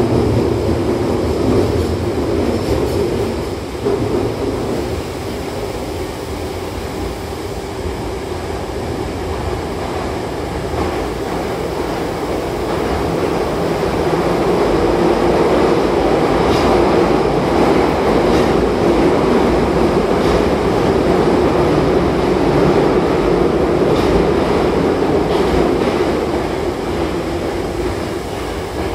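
Hankyu Kobe Line train running between stations, heard from inside the carriage: a steady rumble of wheels on rail and running gear, echoing off the tunnel walls, with a few faint clicks over rail joints. It grows louder about halfway through and eases off near the end.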